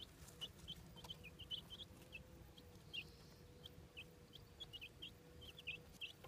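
Chicks peeping: many short, high chirps, several a second, over a faint steady hum.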